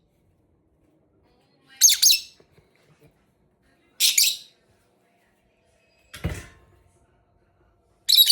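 A pet parrot giving three short, high-pitched calls about two seconds apart. A single dull thump comes about six seconds in.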